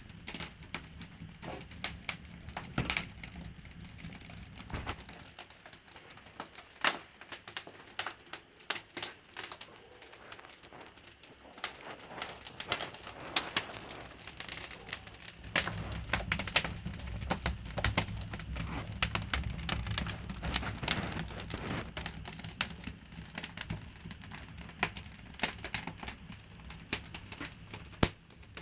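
Wood fire crackling, with irregular sharp pops and snaps throughout. For several seconds in the middle a low rumble joins in.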